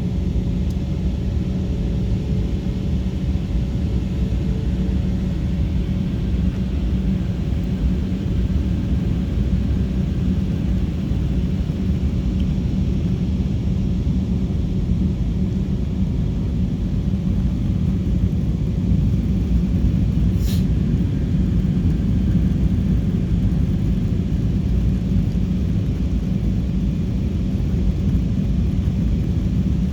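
Steady roar of jet engines and airflow heard inside an airliner cabin, a low rumble with a constant hum. A brief high tick comes about two-thirds of the way through.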